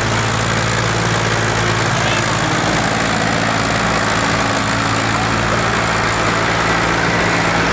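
Tractor engine running at a steady, even speed.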